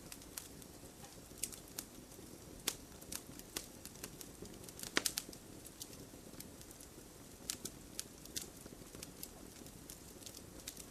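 Wood fire crackling in a fireplace: irregular sharp pops and snaps over a soft low rushing of the flames, with a quick cluster of louder pops about halfway through.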